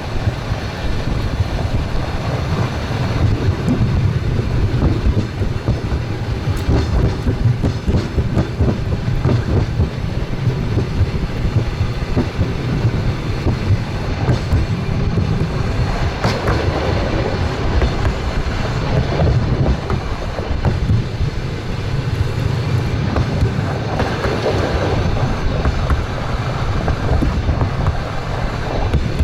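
Express train running at speed on the rails: a steady low rumble of wheels with frequent clatter.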